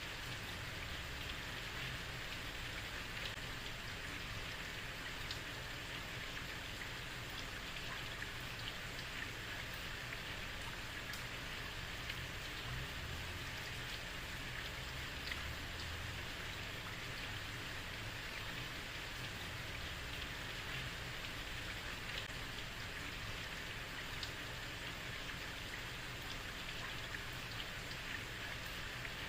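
Steady heavy rain falling on a street, a constant hiss of many drops with a low rumble underneath.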